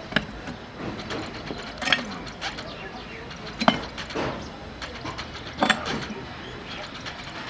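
Sharp metallic clanks, four in all, about two seconds apart, some with a brief ring, over a steady workshop background.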